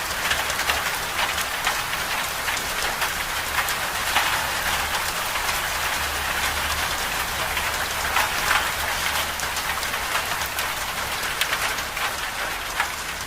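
Winter-storm ambience: a steady, dense hiss of precipitation with many small ticks of it hitting a surface, over a low steady rumble. It begins to fade out near the end.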